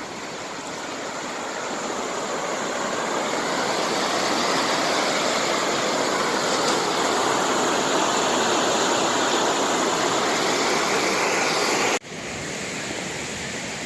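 Water rushing out of a dam's overflow channel, a steady dense noise that grows louder over the first few seconds. It drops suddenly about twelve seconds in and continues more quietly.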